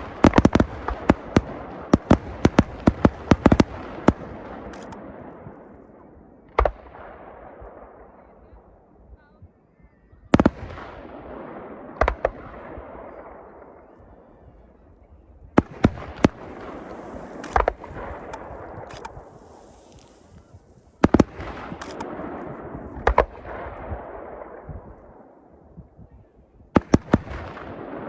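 Aerial fireworks display: a rapid volley of shell bursts in the first few seconds, then single bursts every two to five seconds, each trailing off in a rolling echo, with a quick cluster of bursts again near the end.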